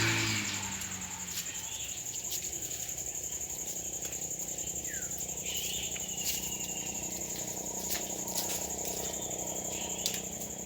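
Insects, likely crickets, trilling steadily on one continuous high note, with a brief bird chirp about halfway through.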